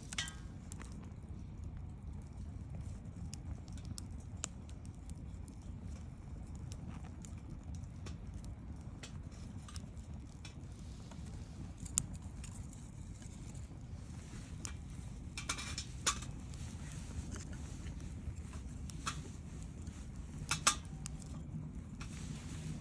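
Wood bonfire burning: a steady low rumble with irregular crackling and sharp pops of burning wood, a few pops standing out louder, the loudest near the end.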